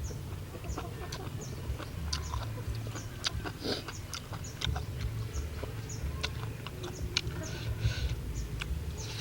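Chickens clucking, with many short high peeping notes and scattered sharp clicks over a low steady hum.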